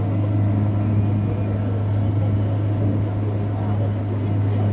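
Steamer's engine running with a steady low drone, unchanged throughout.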